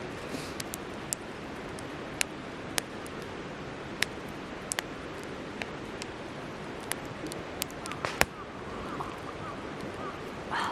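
Wood fire crackling in a fire pit: sharp, irregular pops and snaps over a steady rushing background noise, with the loudest pop about eight seconds in.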